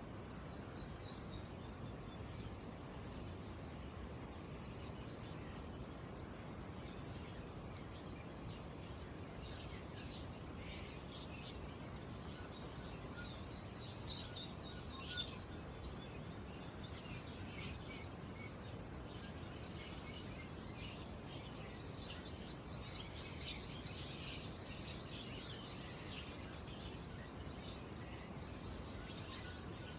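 Many caged birds chirping and calling in short, overlapping notes over a steady high-pitched shrill.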